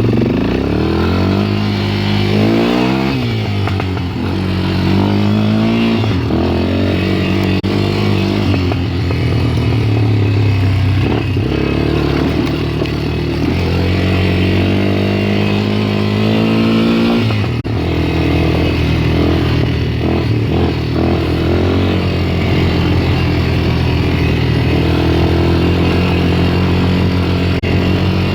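ATV engine running while riding, its pitch rising and falling with the throttle. There is a long climb that ends in a sudden drop a little past halfway.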